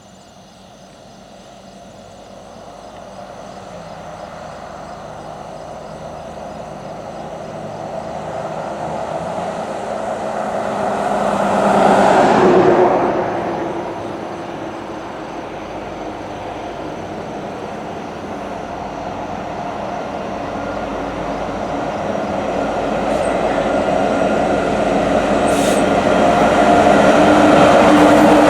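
Diesel freight locomotives approaching, their engine noise growing steadily louder. A brief louder swell rises and falls away about twelve seconds in.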